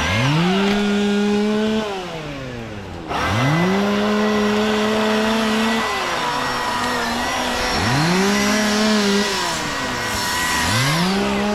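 Chainsaw revved four times: each time the motor spins up quickly, holds a steady high pitch for about two seconds, then winds down.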